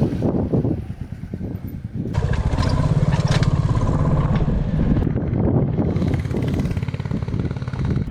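Royal Enfield Classic 350's single-cylinder engine running under way, its exhaust beating in quick, even pulses. It eases off about a second in and picks up again about two seconds in, then runs steadily.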